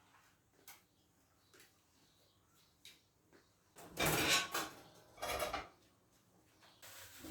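Kitchen handling noises: a few light clicks, then two louder clattering sounds of about half a second each, about four and five seconds in.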